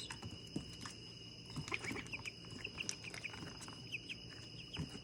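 Faint short bird chirps, several scattered through, each a quick falling note, over a steady high-pitched whine and a few light ticks.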